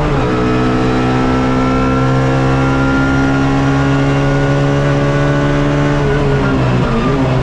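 Suzuki Swift race car's engine heard from inside the car, pulling hard in gear. Right at the start the pitch drops sharply, as at an upshift, then the revs climb slowly and steadily for about six seconds. Near the end they fall and waver unevenly.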